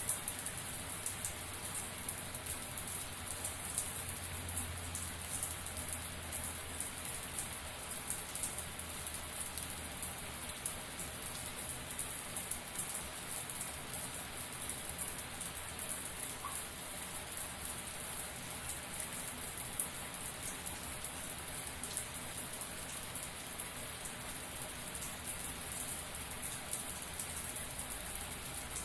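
Shower spray falling steadily: a continuous even hiss of water drops, strongest in the highs, with a dense fine spatter.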